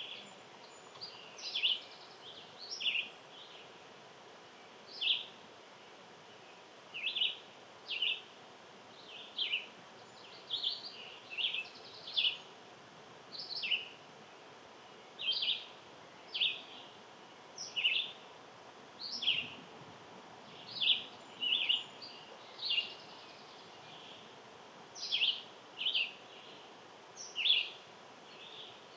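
Small birds chirping: short, sharp, downward-swept chirps repeated irregularly about once a second, over a faint steady outdoor background.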